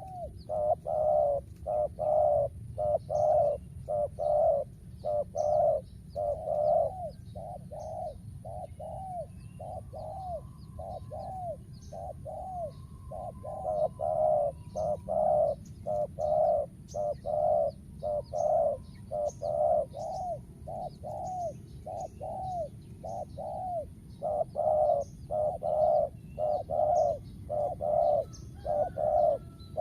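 Spotted doves cooing: a long run of short, arching coo notes about two a second, in groups with brief gaps. Small birds chirp faintly in the background.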